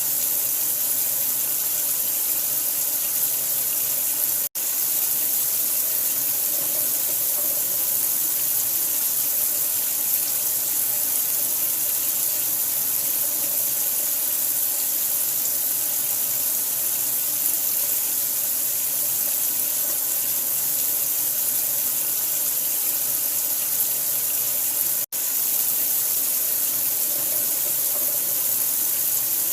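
Steady, hissing running water, even throughout, cutting out for an instant twice, about four seconds in and again near the end.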